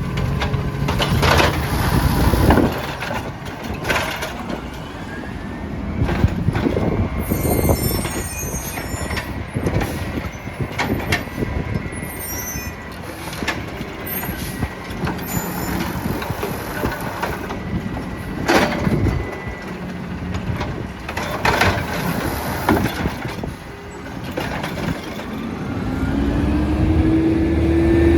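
Peterbilt 320 garbage truck working its route: the engine runs steadily under repeated sudden clanks and air-brake hisses. Near the end the engine revs up.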